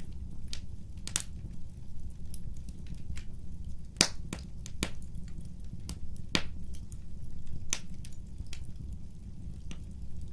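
Wood fire burning: a low steady rumble of the flames with irregular sharp crackles and pops from the burning logs, the loudest pop about four seconds in.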